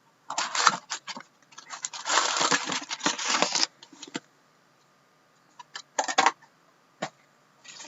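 Plastic shrink wrap being ripped and crinkled off a sealed hockey card box. There is a short crackle, then a longer tearing rustle of about two seconds, followed by scattered crinkles and clicks and another brief crackle later on.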